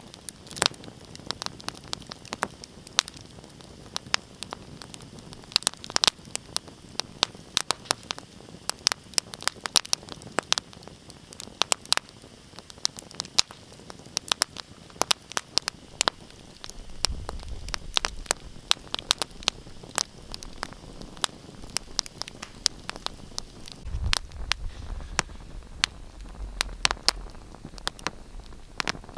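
Wood fire crackling: irregular sharp pops and snaps over a steady hiss, with a low rumble coming in twice, about halfway through and again near the end.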